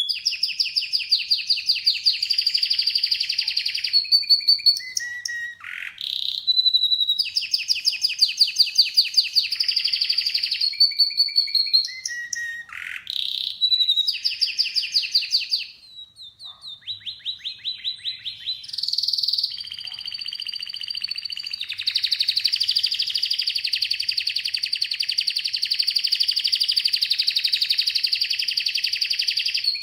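Domestic canary singing: quick trilled phrases broken by short clear whistled notes, then one long unbroken trill through the last third.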